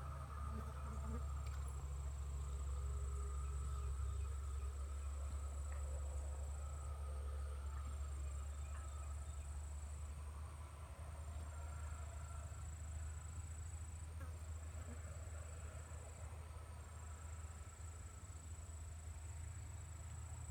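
Insects singing outdoors: a steady high-pitched trill that breaks off briefly every few seconds, over a low steady rumble.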